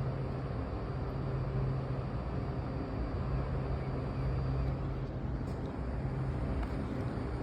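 Steady low mechanical drone with a strong hum, with a faint high whine that stops about two-thirds of the way through and a few light clicks near the end.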